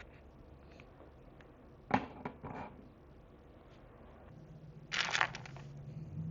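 Miniature food and dish pieces handled and set down: a sharp click about two seconds in with a few lighter taps after it, then a short cluster of clicks and rattling near the end.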